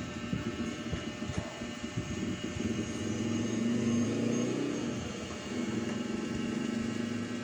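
Film soundtrack effects: a low, shifting rumble with wavering tones that swells about three to four seconds in.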